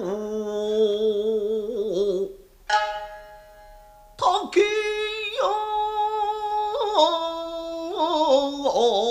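Nagauta music: shamisen plucks under a slow, held vocal line with a wavering pitch. It drops to a brief lull about two and a half seconds in, then resumes with a sharp pluck.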